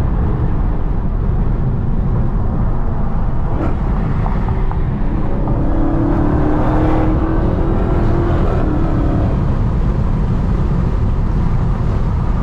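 Dodge Hellcat's supercharged V8 running while driving in traffic: a steady, loud low rumble of engine and road noise. A stronger pitched engine note comes up for a few seconds in the middle.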